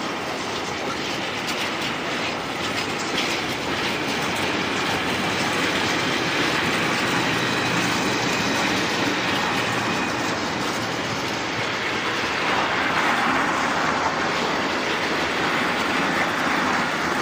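Freight train wagons rolling past close by on the adjacent track: a steady rumble of steel wheels on rail, clacking over the rail joints.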